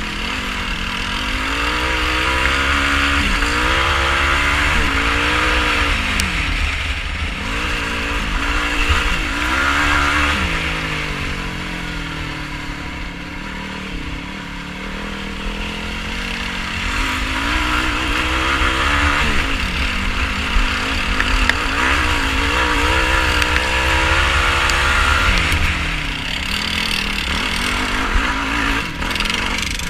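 Yamaha YFZ450R quad's single-cylinder four-stroke engine revving up and down while riding off-road. Its pitch rises and falls over and over with throttle and gear changes, over a steady low rumble.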